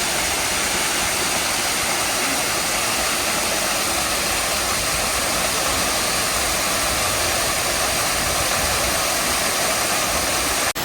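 Steady rushing water, an even, unbroken roar, with a brief cut near the end.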